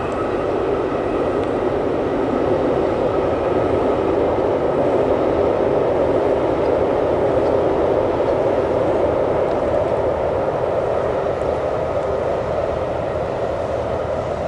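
A train crossing a long steel truss railway bridge makes a steady rumble that swells slightly and then eases. A faint whine fades out in the first few seconds.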